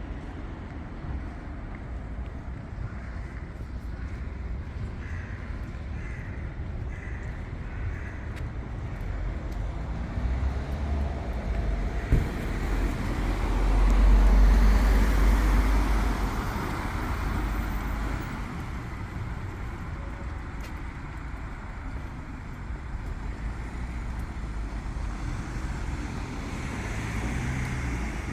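City street traffic: a steady hum of road vehicles, with one vehicle passing close. It swells to its loudest about halfway through, then fades.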